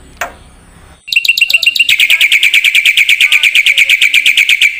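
Bird's rapid chattering call: a loud, high note repeated about a dozen times a second. It starts about a second in, steps slightly lower partway through and stops just before the end. A soft click comes first.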